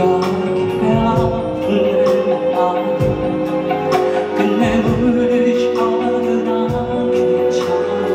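Live band music: a slow ballad, with held chords over a steady, slow beat.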